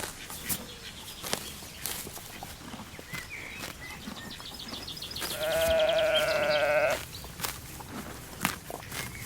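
A sheep gives one long, quavering bleat about five seconds in, lasting nearly two seconds, over scattered faint clicks.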